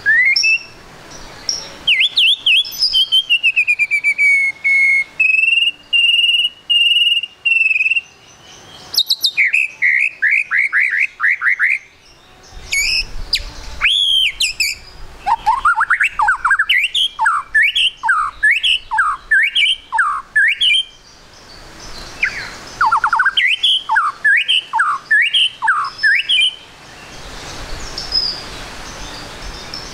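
White-rumped shama (murai batu) singing loudly. Its song is a string of varied whistled phrases: long sliding whistles, then fast runs of notes that sweep up and down several times a second. Short pauses of steady background hiss break the song, the longest near the end.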